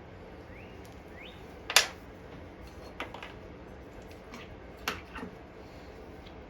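A few sharp clicks and knocks of hand tools being handled, the loudest about two seconds in. Two faint, short rising chirps come in the first second and a half.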